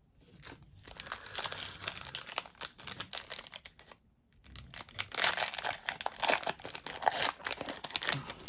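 Foil Pokémon booster pack wrapper being torn open and crinkled in the hands, in two long stretches of dense crackling with a short pause about four seconds in.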